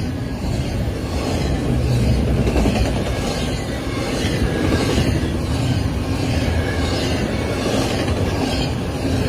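Train passing at speed: a steady loud rumble with wheels clattering over the rail joints in an even rhythm, about two clicks a second.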